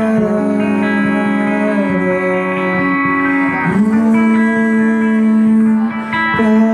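Live band music led by sustained guitar chords, shifting to a new chord a few times with small sliding pitch bends.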